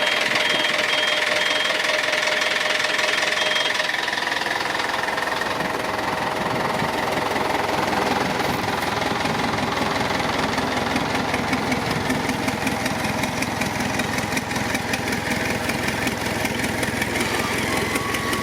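Yanmar LF26Z boat's engine running steadily at idle just after starting, with a fast, even knock. A thin high tone sounds over it for the first few seconds and then stops.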